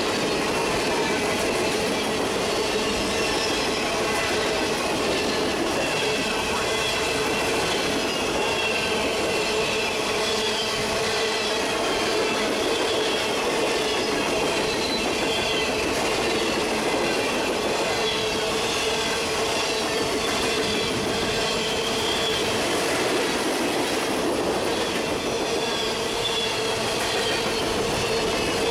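Freight train of open-top hopper cars rolling past close by: a steady rumble of steel wheels on rail, with steady squealing from the wheels and wavering higher squeals over it.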